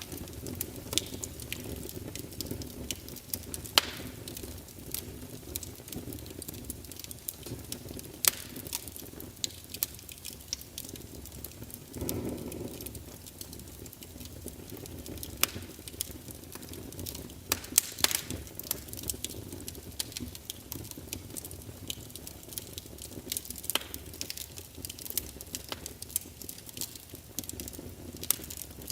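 Crackling fire: a steady low rushing under frequent sharp, irregular pops and snaps.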